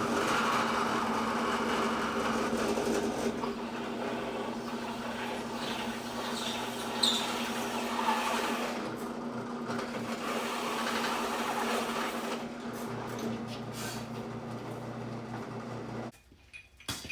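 Electric drill running steadily under load while boring holes in a truck floor pan. It cuts off suddenly about a second before the end.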